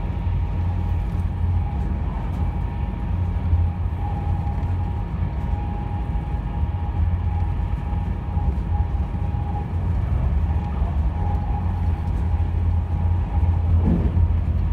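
Passenger train running at speed, heard from inside the carriage: a steady low rumble with a faint high whine held above it.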